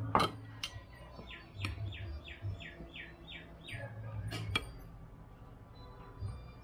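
A bird calls a quick series of about seven short falling notes, roughly three a second. Sharp clinks of metal serving spoons against ceramic bowls and plates come twice near the start and twice a little over four seconds in.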